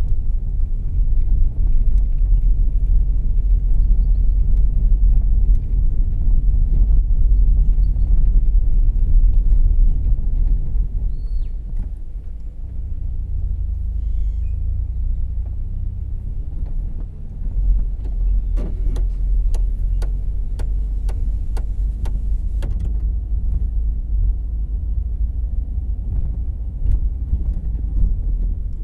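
Cabin sound of a 2014 Volkswagen Jetta Clásico on the move: a steady low rumble of engine and road noise that eases off a little about halfway through. Near the end comes a run of about ten evenly spaced clicks, the turn-signal indicator ticking.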